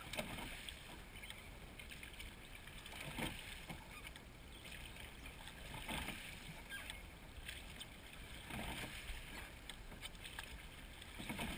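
A seine boat crew rowing together: the oar blades swish and splash in the water in unison, one stroke about every three seconds, over a steady hiss of water and wind.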